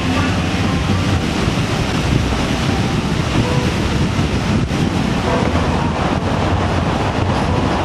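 Steady wind rushing over the microphone on a moving vehicle, with low road and engine noise underneath.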